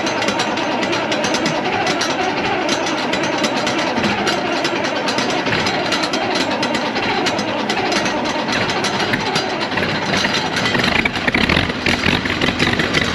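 Massey Ferguson tractor engine idling with a steady, rapid clatter just after a cold morning start.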